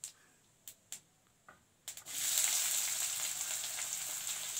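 A few faint clicks, then about two seconds in, chopped onion, green chilli and garlic drop into hot oil in a kadhai and start sizzling loudly and steadily.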